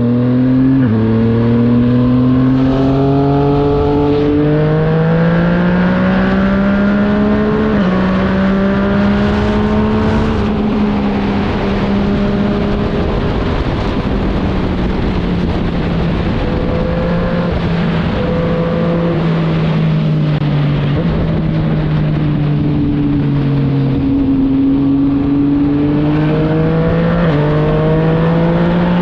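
Motorcycle engine pulling hard under acceleration, its pitch climbing and then dropping sharply at each upshift, several times in the first few seconds. It then holds a steadier high-speed drone with small changes in pitch.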